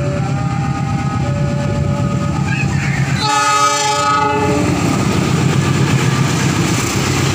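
KAI CC 206 diesel-electric locomotive passing close by with its train: a steady diesel engine rumble, with a loud blast on its horn of about a second and a half a little after three seconds in, followed by the noise of the engine and the wheels on the rails as it goes past.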